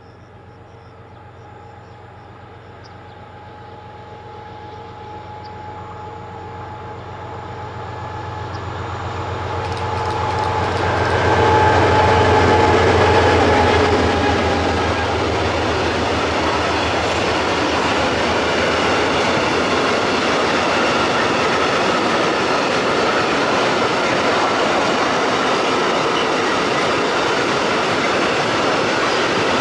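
A freight train passing close by. The locomotive approaches with a steady low hum and tones, growing louder to a peak about 12 seconds in, and its pitch drops as it goes past. The wagons then roll by with a steady, dense wheel-on-rail noise.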